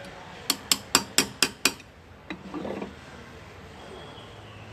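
A hand engraving hammer tapping a graver: six quick, sharp taps, about four a second, then a single tap and a short, softer scrape.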